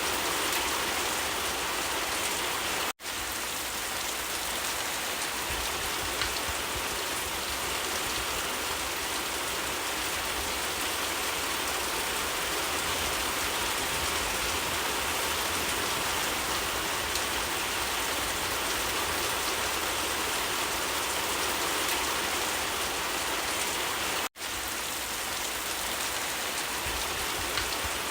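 Steady heavy rain falling, an even dense hiss that cuts out for an instant twice, about three seconds in and again near the end.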